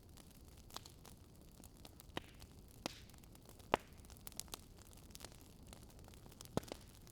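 Wood fire crackling: irregular sharp pops and snaps over a faint steady rumble, the loudest pop a little under four seconds in and another near the end.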